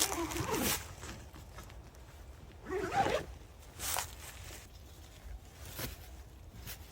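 Short zipper pulls and nylon rustling on a Bundok Solo Tipi 1 tent being pitched, in several brief bursts with pauses between, the strongest near the start and about three seconds in.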